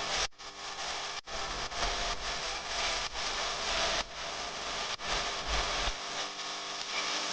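Scratchy rubbing strokes of colouring on paper, continuous with small changes in texture and a brief break about a second in.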